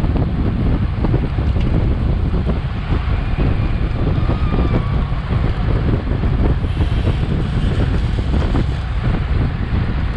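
Heavy wind buffeting the microphone of a bike-mounted action camera at racing speed: a loud, steady rumble that fills the low end.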